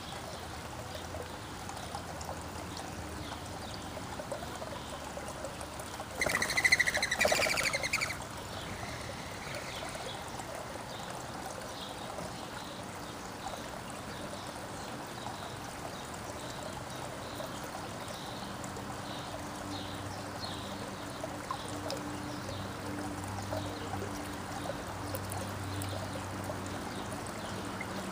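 Backyard songbirds chirping faintly over steady trickling water. About six seconds in, a much louder call close by lasts about two seconds.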